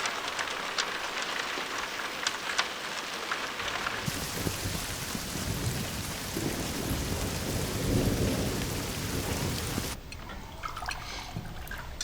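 Steady rain with dripping ticks. About four seconds in it turns into a heavier downpour with a low thunder rumble that swells and peaks around eight seconds. It cuts off suddenly near the end to a quiet room with a few faint clicks.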